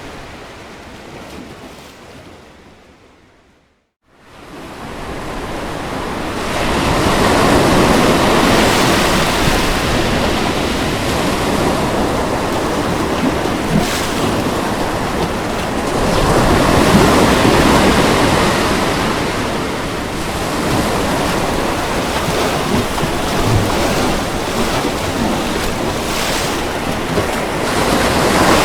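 Ocean surf breaking on a beach as a continuous rush of waves, swelling and easing every several seconds. About four seconds in the sound fades to silence and fades back up, a splice or loop point in the recording.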